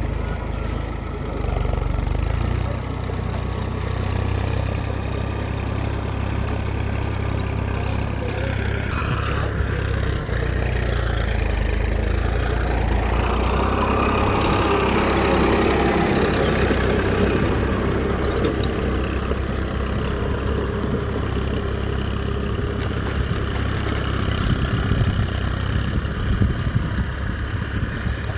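Mini tractor's engine running steadily at idle, with a low, even hum.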